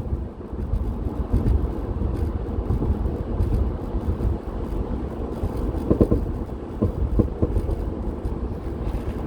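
VW Eurovan on the move: steady low road and engine rumble, with a few short rattling knocks in the second half. The rattle is intermittent.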